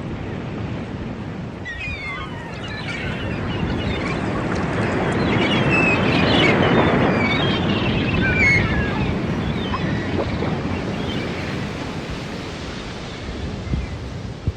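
Sea surf: a wave builds, breaks and washes in, loudest about halfway through, then slowly recedes.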